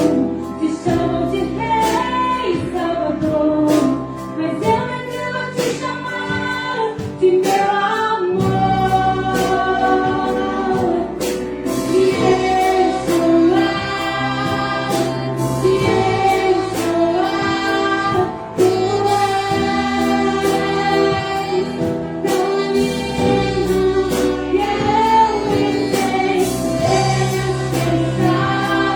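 Orchestra of strings and winds playing a slow Christian worship song, the melody in long held notes over a steady bass line, with singing blended in.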